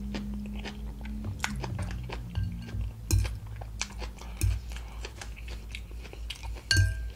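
Close-miked chewing of soft food, with wet mouth clicks and smacks throughout and a low closed-mouth hum for the first couple of seconds.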